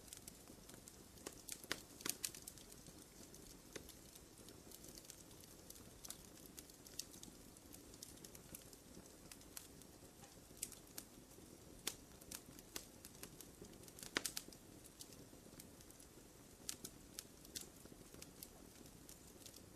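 Small campfire crackling: irregular sharp pops and snaps of burning wood over a low, soft hiss. Small clusters of pops come about two seconds in and again near the end of the second third, the loudest around fourteen seconds.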